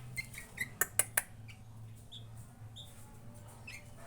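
Short, scattered chirps of a young sooty-headed bulbul, with three sharp clicks about a second in and a steady low hum underneath.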